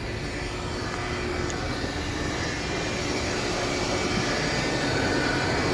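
Single-phase electric motor and gear-type high-pressure hydraulic pump of a log-splitting guillotine running with a steady drone that grows slowly louder.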